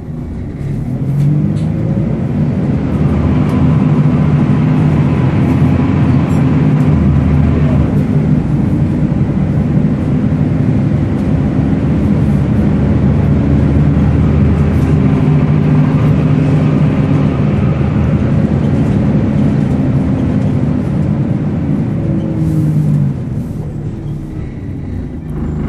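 Volvo B10BLE bus engine pulling away and running steadily under load, over the whine of its screechy cooling fan, the 'hoover' sound. The engine note rises at the start, holds, then drops away near the end as the bus eases off.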